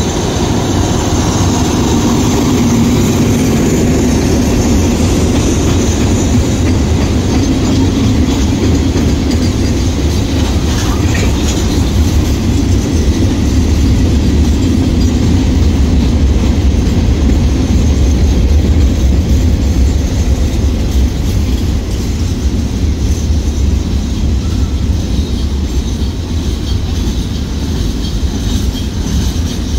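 Container flat wagons of a long freight train rolling past, a steady loud rumble of steel wheels on the rails.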